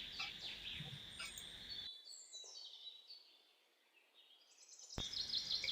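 Faint bird chirps and twittering that fade out about two seconds in, followed by a few seconds of dead silence, with faint chirping coming back near the end.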